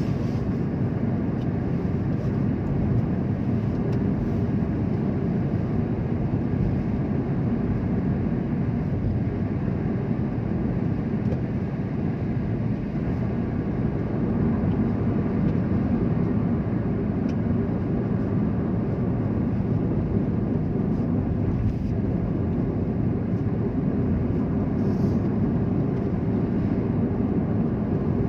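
Steady low rumble of a vehicle on the move, road and engine noise running evenly with no distinct events.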